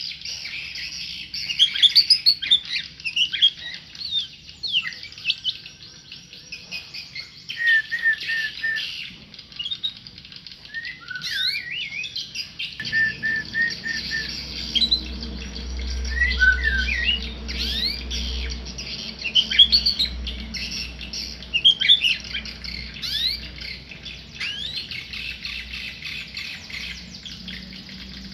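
A tame murai, a Copsychus songbird, singing a long varied song of sweeping whistles, chirps and short runs of repeated notes. A low steady hum joins about halfway through.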